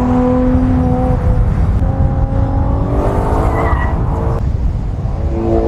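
Ferrari Purosangue's 6.5-litre naturally aspirated V12 engine running under way, heard over several short spliced shots; its note holds mostly steady, with a slight rise near the middle.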